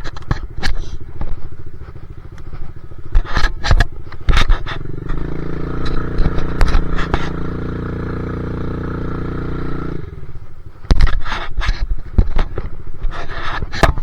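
Dirt bike engine running on a rough trail, with frequent knocks and clattering from bumps. From about five seconds in the engine holds a steady note for several seconds, then the jolts return with a loud knock around eleven seconds in.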